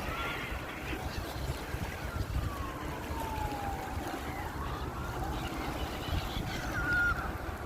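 Wind rumbling on the microphone over steady water noise, with a few faint gliding calls from seagulls: one long call falling in pitch in the middle and a short call near the end.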